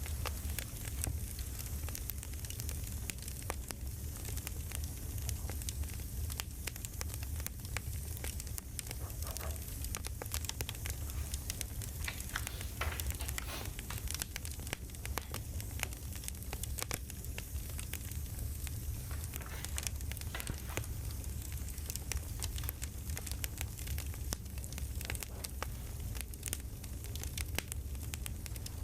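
Wood campfire crackling: dense, irregular pops and snaps over a steady low rumble of burning.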